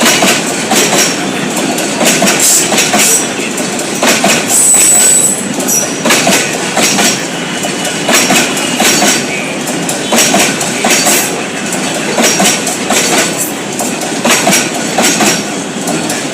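Freight train wagons rolling by, with the steady clickety-clack of wheels over rail joints and a brief high wheel squeal about four and a half seconds in.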